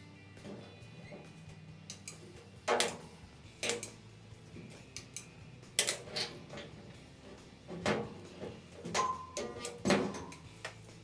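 A string of sharp knocks and clanks, about seven, spaced irregularly, from metal tools and parts being handled during bodywork, over faint background music.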